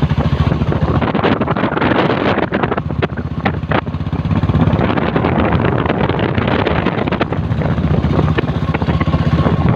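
Motorcycle engine running steadily on the move, with wind buffeting the microphone and a few short knocks between about one and four seconds in.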